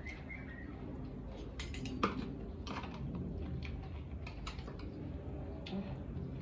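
Eating utensils clicking and scraping against a dish, scattered light taps with one sharper knock about two seconds in.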